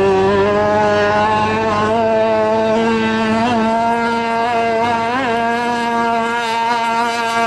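A racing banca's two-stroke engine running at high, steady revs: a high-pitched drone whose pitch dips and recovers briefly twice, about three and a half and five seconds in.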